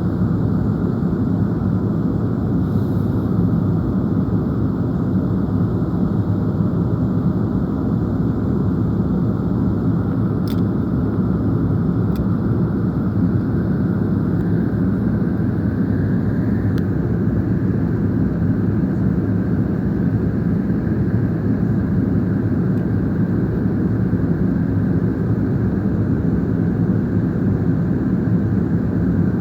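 Boeing 787 airliner's engine and airflow noise: a steady, even rush, deep-weighted, that holds unchanged throughout, with a few faint ticks about ten to seventeen seconds in.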